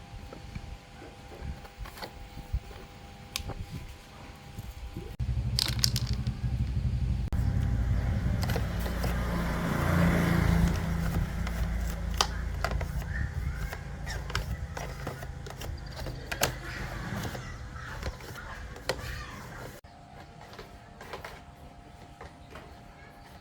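Scattered clicks and tool-handling noises. Then, about five seconds in, a steady low motor hum starts abruptly and runs until it cuts off near the end, leaving quieter clicks.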